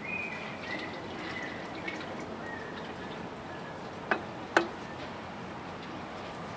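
Two sharp clicks, a half second apart about four seconds in, over steady shop background noise and a faint high squeak that comes and goes early on.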